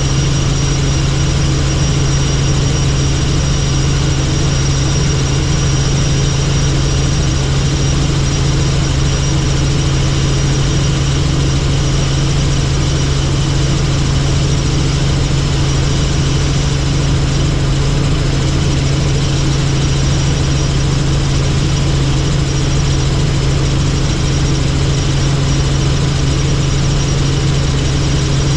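Helicopter in flight: a loud, unchanging drone of engine and rotor with a thin high whine on top.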